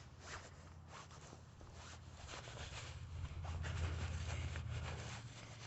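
Faint rubbing and rustling, typical of a phone being handled while walking, over a low steady rumble that swells from about halfway through.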